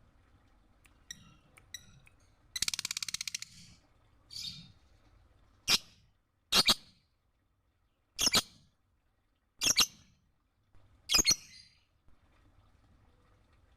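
Lovebird calling: a rapid buzzy trill about three seconds in, then a string of five sharp, high chirps spaced a second or so apart.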